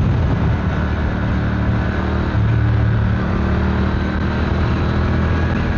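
Triumph Speed Twin 1200's parallel-twin engine running steadily under way, heard from the rider's seat.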